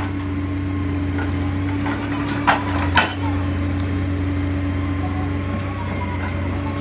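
JCB excavator's diesel engine running steadily, with two sharp knocks about half a second apart midway through.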